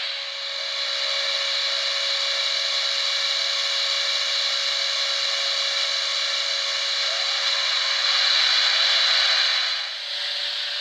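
Sound decoder of an N scale Minitrix SBB Ce6/8 'Crocodile' electric locomotive model playing its locomotive running sound through the model's tiny speaker: a steady rasping hiss over one constant tone, with no bass. It grows louder about eight seconds in and drops back about ten seconds in.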